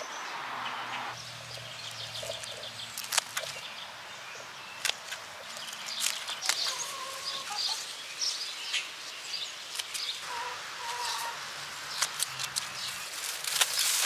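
Birds chirping and calling in short scattered notes, mixed with sharp intermittent clicks and knocks.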